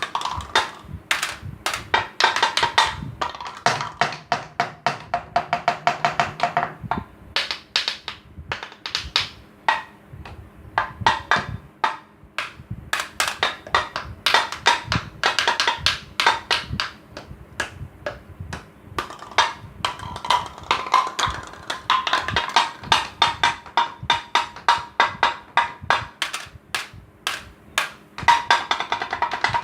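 Improvised drum made from waste materials being played in a fast, steady stream of strikes, some stretches carrying a ringing pitch under the hits.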